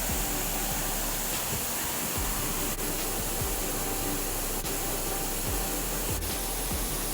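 Steady rush of a waterfall, with background music.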